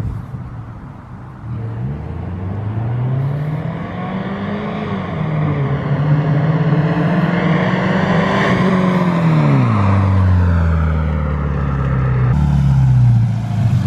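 Subaru Impreza 2.5 RS flat-four engine with its muffler deleted, loud, driving past under acceleration. The engine note climbs early on and holds high, then drops sharply in pitch about ten seconds in and carries on lower.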